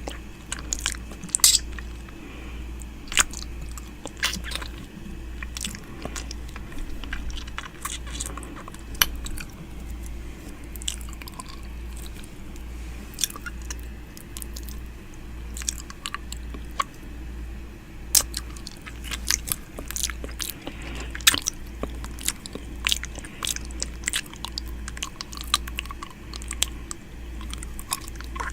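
Close-miked ASMR 'ear eating' mouth sounds: irregular wet clicks, lip smacks and tongue sounds, several a second, over a low steady hum.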